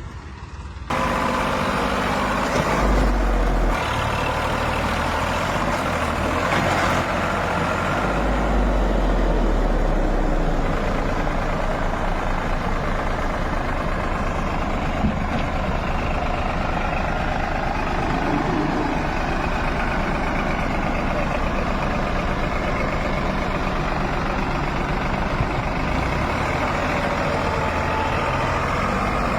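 Tractor engine running steadily, cutting in abruptly about a second in, with a deeper rumble briefly around three seconds and again from about eight to ten seconds in.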